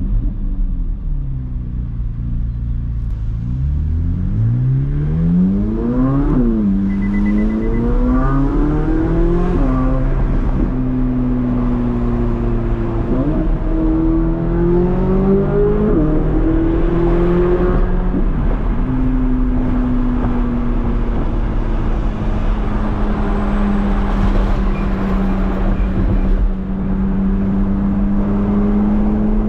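Chevrolet Corvette C8 Z06's 5.5-litre naturally aspirated flat-plane-crank V8 running while driven. The revs ease off at first, then climb steeply, with sudden pitch drops at quick upshifts about six and ten seconds in and again around 13 and 16 seconds. It then settles into a steady cruise.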